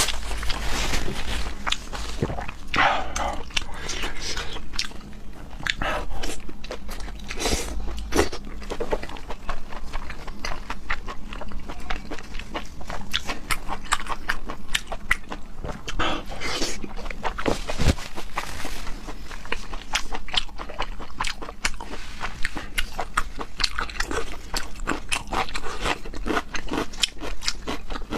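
Close-miked mouth sounds of someone eating: repeated bites and chewing, full of short crunches and clicks.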